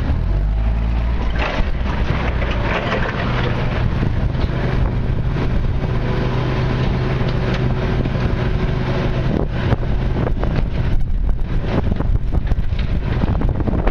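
Backhoe's diesel engine running steadily, with scattered clanks and knocks of the machine working scrap, busier in the last few seconds. Wind buffets the microphone.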